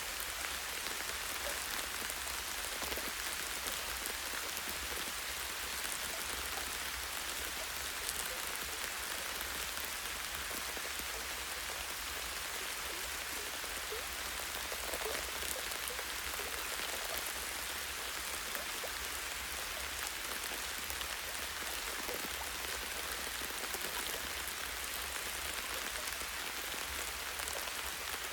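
Light, steady rain falling on tree branches and leaves, a continuous hiss with individual drops striking here and there.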